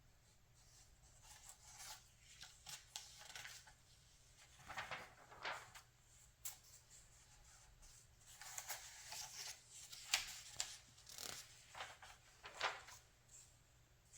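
Magazine pages being turned and handled: soft paper rustles and several sharp swishes of a page flipping over, the busiest stretch in the second half.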